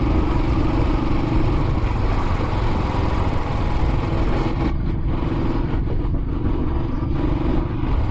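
Royal Enfield Classic 500's single-cylinder engine running steadily under way, with wind hiss over the microphone that thins out about halfway through.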